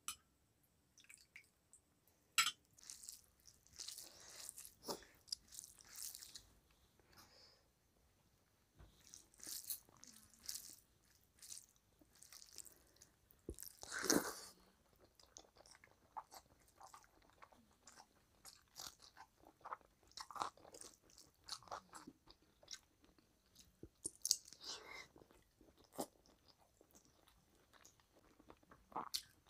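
Close-miked chewing and mouth sounds of someone eating rice and egg curry by hand, coming in irregular bursts, with the loudest burst about halfway through as a mouthful goes in.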